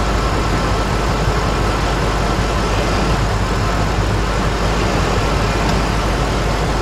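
2004 Lincoln Navigator's 5.4-litre V8 idling steadily while it runs rough with a cylinder misfire.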